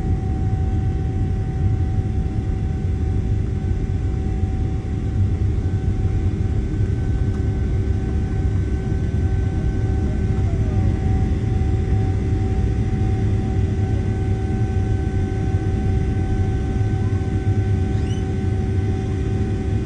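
Steady low engine rumble with a constant humming whine over it, even throughout.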